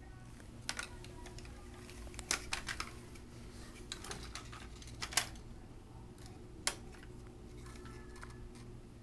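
Scattered light clicks and knocks of small hard toys being handled, a few at a time with pauses between, over a low steady hum.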